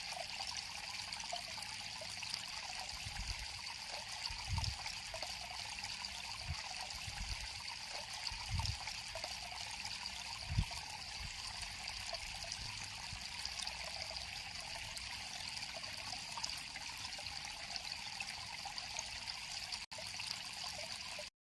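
River water flowing and trickling steadily, with a few soft low thumps in the first half.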